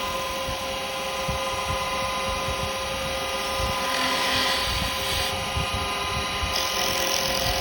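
Wood lathe motor running with a steady whine while a carbide chisel cuts the spinning yew. The hiss of the cut comes in stronger about four seconds in and again near the end.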